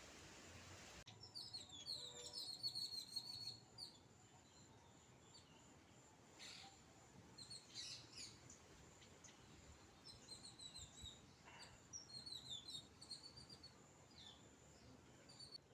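Small songbirds chirping faintly in quick, short high notes. The chirping starts about a second in with a busy run, thins to scattered calls, then picks up again near the end.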